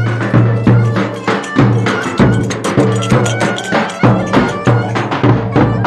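Live Turkish folk dance music: sharp percussion beats keep a steady rhythm over a low steady bass tone, with a high wavering melody line above.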